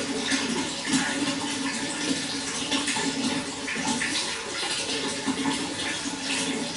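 Running water: a steady, splashing flow with small irregular splashes throughout.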